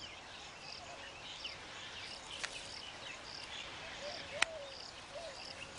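Weaver birds chirping in short scattered calls over a high, evenly repeating insect-like note about every two-thirds of a second, with a single sharp click about four seconds in.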